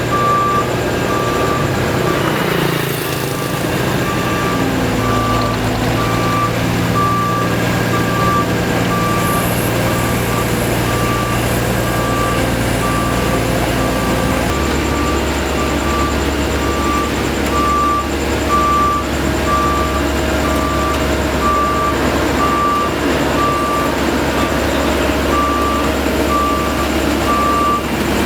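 Reversing alarm beeping steadily about once a second over the steady diesel engines of asphalt-paving machines; about halfway through the engine note shifts lower as a machine changes speed.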